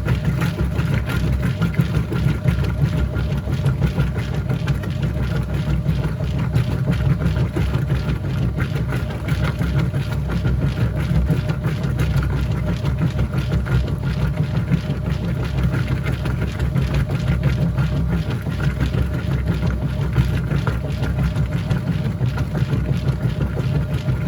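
Whirlpool top-load washing machine running mid-cycle: a steady, low motor hum that goes on without a break.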